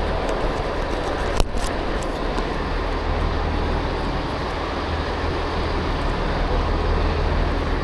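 Train at a station platform, running with a steady low rumble and hum. A single sharp click comes about a second and a half in.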